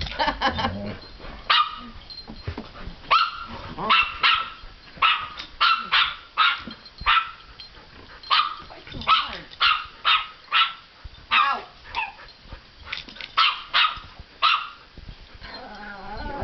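Pet dogs barking repeatedly in short, sharp barks during excited play, often several a second in quick runs.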